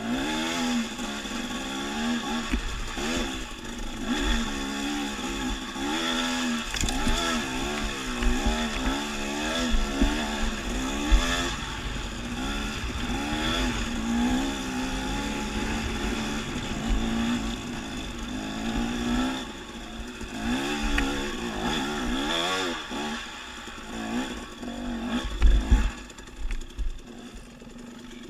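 Dirt bike engine revving up and down over and over as it rides a trail, with the pitch climbing and dropping every second or two. A few low thumps stand out, the loudest near the end.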